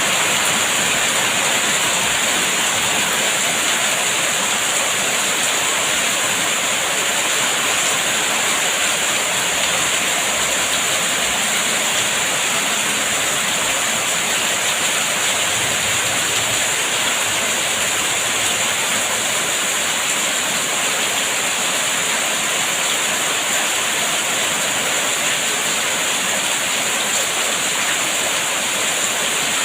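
Steady heavy rain: an even, unbroken hiss with no distinct drops standing out.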